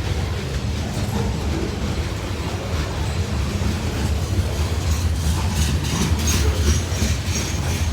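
A CSX manifest freight train rolling past with a steady low rumble. The wheels start clicking over rail joints about five seconds in.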